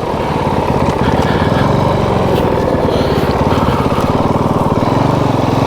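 Motorcycle engine running steadily while being ridden, a fast, even firing pulse under load.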